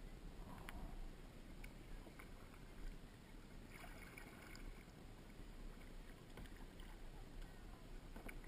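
Faint kayak paddling: paddle dips and water dripping, with a few small knocks and ticks over a low steady rumble.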